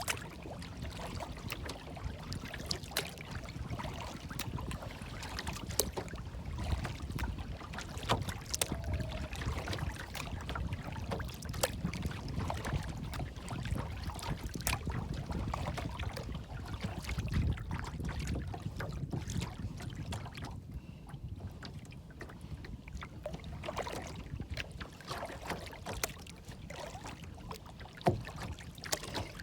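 Outdoor water ambience: a steady low rumble like wind, with many small clicks and splashes of lapping water scattered throughout.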